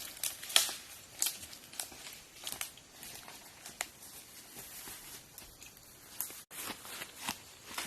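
Irregular crackling and rustling of dry forest litter, a few sharp snaps or crackles every second.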